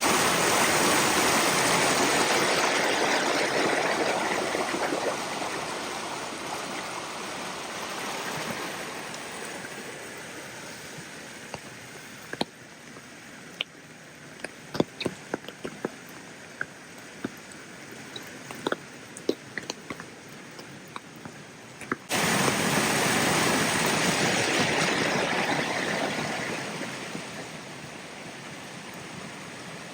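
Rain and running water in a steady rushing hiss. It comes in suddenly and loud at the start and fades over several seconds, then comes in loud again about three quarters of the way through and fades. In the quieter middle stretch, scattered sharp drips and taps stand out.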